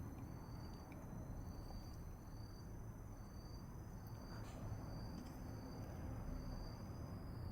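Insects singing: one steady high-pitched trill runs on while a second, slightly lower trill pulses on and off about once a second, over a low background rumble, with a few faint clicks.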